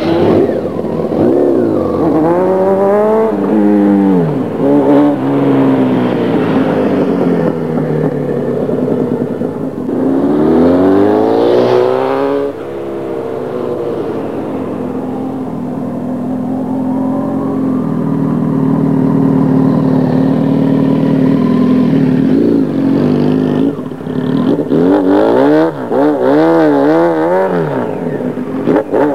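A sport motorcycle's engine revving up and down over and over, with one long climb and drop about eleven seconds in, a steadier stretch of running after it, and quick rev blips near the end.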